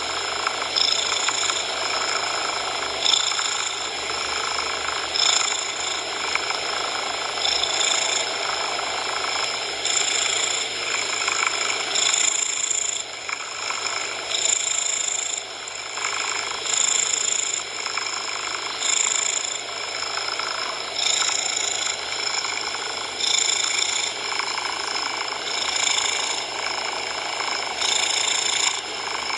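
A cat purring, rising and falling about every two seconds with its breathing, over a steady bed of coloured noise.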